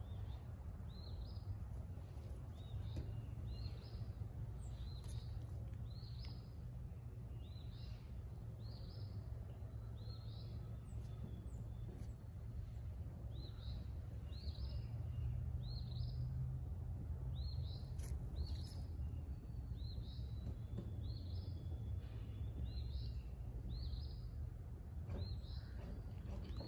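A bird chirping over and over, one short note every second or so, above a steady low outdoor rumble.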